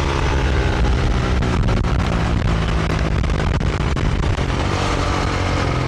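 Honda CRF450R dirt bike's single-cylinder four-stroke engine running under way, over a heavy rumble of wind on the microphone.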